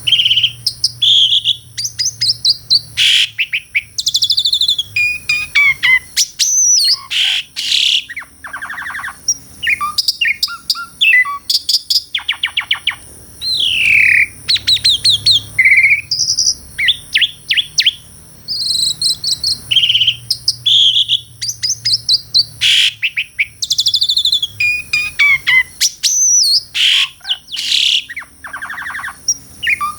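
Asian pied starling (jalak suren) singing loudly and continuously: a varied medley of clear whistles, sliding slurs, fast rattling trills and harsh chatter. The same run of phrases comes round again about halfway through.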